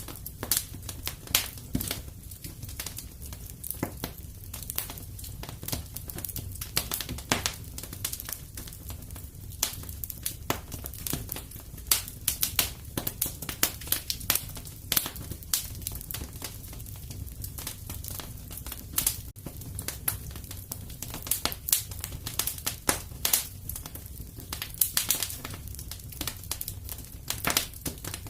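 Fireplace fire crackling, with dense irregular pops and snaps over a low steady rumble of the flames.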